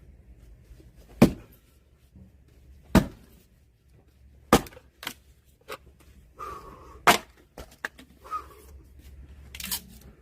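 An axe splitting firewood logs by hand: four hard, sharp strikes about one and a half to two and a half seconds apart, with smaller knocks of wood between them.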